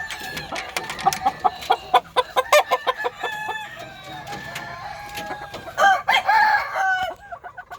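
Gamefowl clucking and roosters crowing, with a run of sharp clicks in the first three seconds and one loud call about six seconds in.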